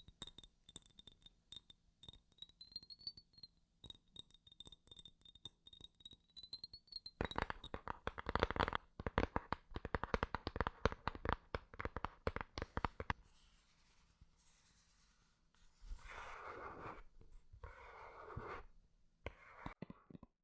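Close-miked ASMR trigger sounds from hands on objects: a thin high tone under light clicking at first, then a dense run of quick taps and clicks, then a few seconds of scratchy rubbing near the end.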